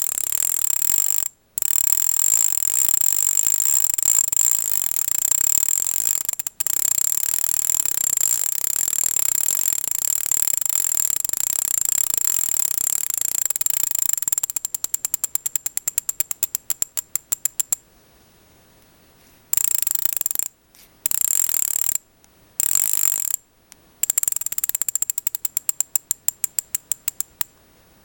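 Mavic Deetraks rear hub freehub, without cassette, freewheeling: rapid ratchet clicking that merges into a high buzz, slowing to separate clicks and stopping about two-thirds of the way through. It is then given several short spins, and the clicks slow again near the end.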